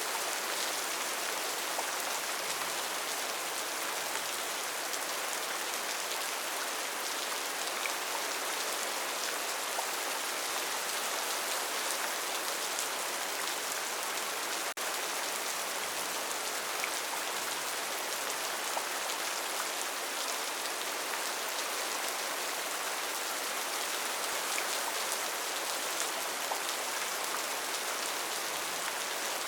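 Steady rainforest rain: an even hiss of falling rain with individual drops ticking now and then.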